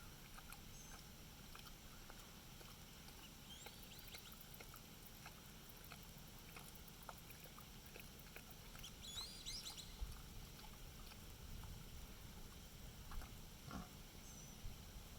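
Faint, scattered dripping of rain, with a pig's soft low grunts and a few short high chirps.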